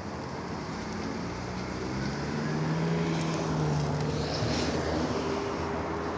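A motor vehicle's engine hum over steady outdoor background noise, swelling over the middle seconds and easing off again.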